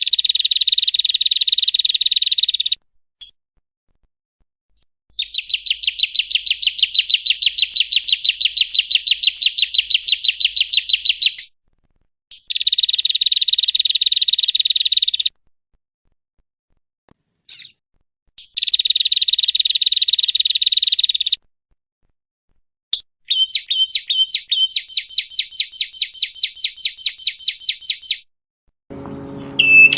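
Prinia (prenjak) song: a series of high, fast trilled phrases, each a few seconds long with short silent gaps between them. Some phrases are a dense, even buzz and others are rows of rapid separate notes. In the last second a different, lower sound comes in.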